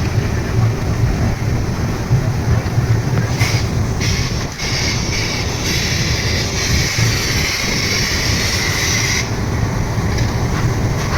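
12840 Howrah Mail passenger train running on the rails with a steady, loud rumble. A brighter hiss rises over it from about three seconds in and drops away about nine seconds in.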